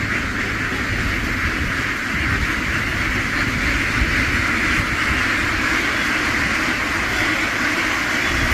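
Steady, dense din of a large flock of ducks quacking all at once, over a continuous low rumble.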